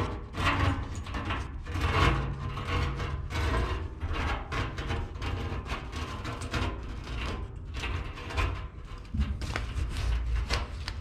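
Irregular rubbing, scraping and clicking as a 10-micron filter bag is worked into the cut-out opening of a used oil container.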